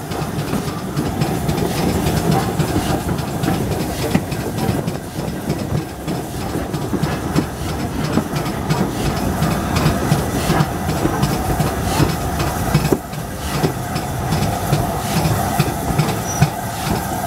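Steady rumble and clatter of train wheels over the rail joints, heard from on board the steam locomotive LMS Black Five 45379, as a train of coaches passes close alongside on the next track.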